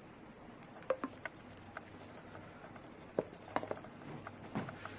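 Light, irregular clicks and taps of hands handling small objects, with a few louder knocks.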